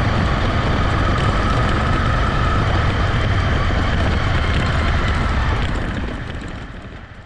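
Honda CB250R's single-cylinder engine running steadily while the motorcycle is ridden, fading out near the end.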